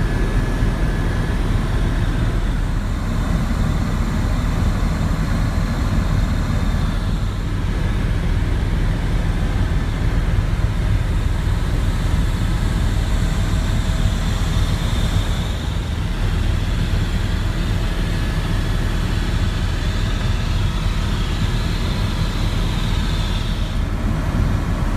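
Tour helicopter's engine and rotor noise in flight, a steady, loud drone heard from inside the cabin.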